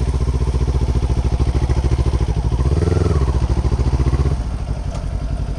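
Kawasaki Ninja 400's parallel-twin engine running at low speed, with a brief rise in revs about three seconds in, then easing off.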